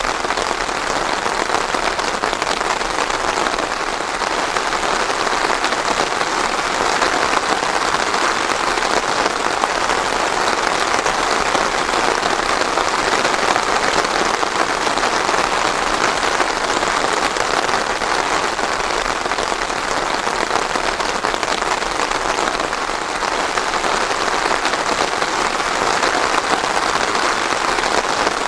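Steady rain falling and pattering on a surface, an even continuous hiss with no thunder.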